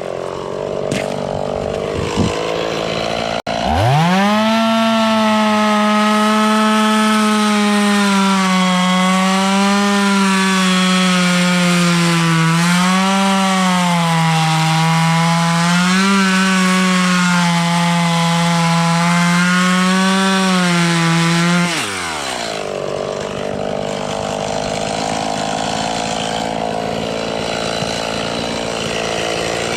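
Chainsaw running at idle, then throttled up sharply about three seconds in and held at full speed for roughly eighteen seconds while cutting wood, its pitch sagging slightly now and then under the load. Near the end it is let off and drops back to idle.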